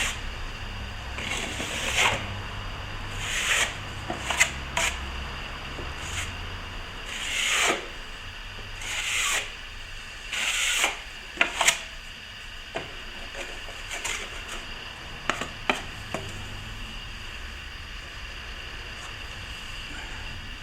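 Plastering trowel scraped across a freshly applied coat of cornice cement, dry polishing the final skim coat: a series of uneven scraping strokes a second or two apart, with a few sharp clicks of the blade.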